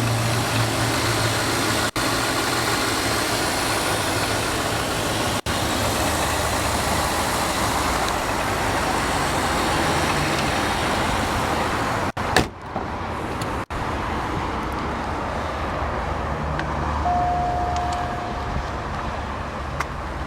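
A 2003 Cadillac Deville's 4.6-litre Northstar V8 idling steadily. About twelve seconds in there is a sharp knock, after which the engine sounds more muffled.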